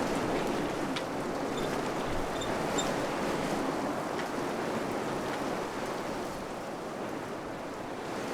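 Wind blowing steadily with a rushing, gusty noise that eases a little after about six seconds, with a few faint ticks.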